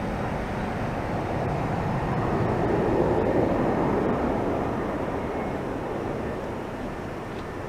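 Jet engines of a Boeing 747-400 freighter at takeoff power, a steady rumble that swells to its loudest about three seconds in and then eases off.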